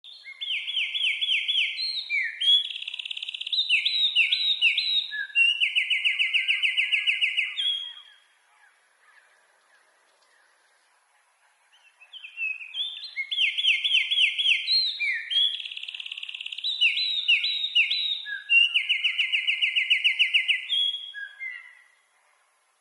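Eurasian wren singing: two long songs of loud, rapid, high trills and sharp notes, each lasting about eight seconds, with a pause of about four seconds between them.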